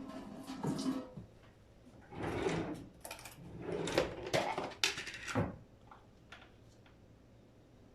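Household handling noises: several bursts of sliding and scraping, like a drawer or cupboard being worked and things moved about, then a few light clicks near the end.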